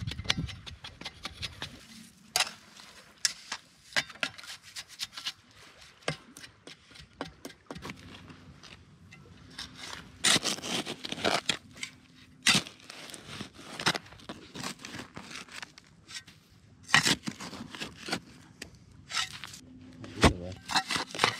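Dry wood and brush being handled while firewood is gathered: irregular cracking, scraping and rustling, with several sharper snaps of breaking sticks.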